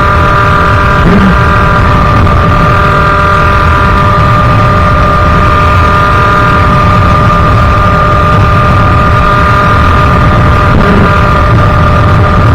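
Sherco 50cc two-stroke engine with a KRM expansion-chamber exhaust, running at steady high revs while riding.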